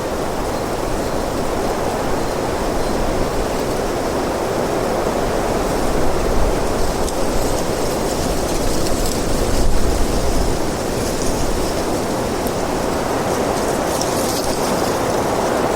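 Steady wind blowing, with stronger gusts swelling about six and ten seconds in.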